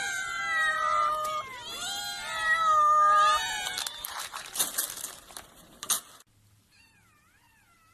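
Domestic cat meowing in a series of long, drawn-out calls, followed by a scatter of sharp knocks or clatters. After an abrupt cut, faint wavering mews are heard near the end.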